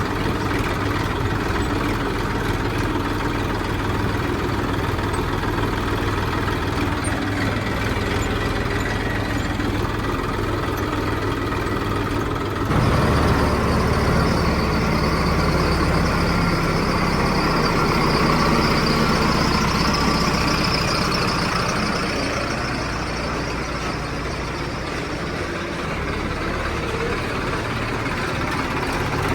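Heavy diesel engine running steadily, then turning suddenly louder about thirteen seconds in and easing off gradually over the last several seconds.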